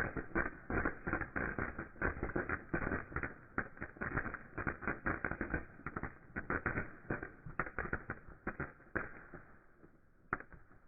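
Ground fountain firework crackling: a dense stream of rapid, irregular pops that thins out and dies away near the end, with one last pop.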